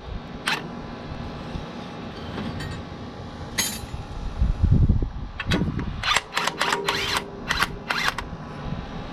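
Cordless impact wrench run in a series of short bursts, about six between the middle and near the end, loosening hydraulic hose fittings that were tightened with an impact, after a few clicks and a knock.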